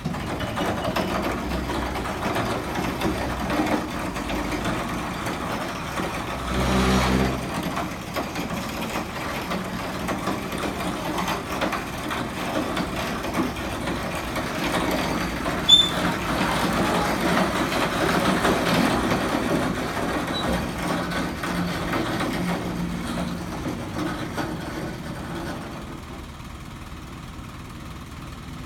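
A heavy truck's engine running amid vehicle noise. A short low pitched blast comes about seven seconds in and a sharp high click just past halfway, and the sound grows quieter near the end.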